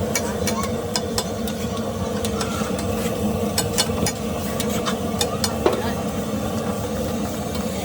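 Metal spatula clicking and scraping on a flat griddle as egg tikki fries, over a steady engine hum.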